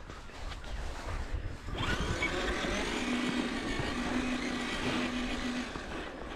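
Electric RC truck driving: its motor and geared drivetrain whine, starting suddenly about two seconds in, with a steady low hum through the middle.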